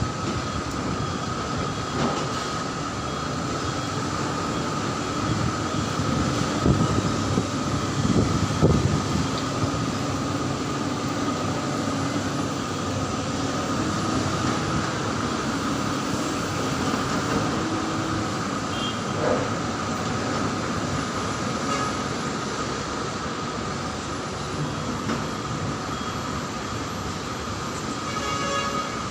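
Heavy dump truck running steadily, a constant rumbling drone with a steady high whine over it.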